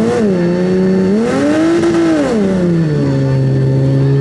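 Car engine idling and revving twice: a short blip at the start, then a longer rev about a second in that rises and falls back to idle.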